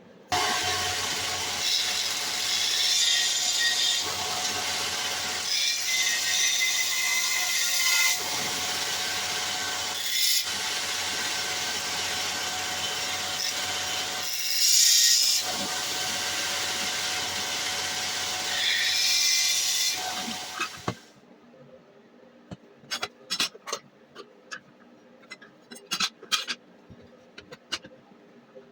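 Homemade belt sander driven by a washing-machine motor, running and abrading a workpiece with a steady grinding noise that swells several times as the work is pressed harder. It stops abruptly about 21 seconds in, followed by light clicks and rattles of handling.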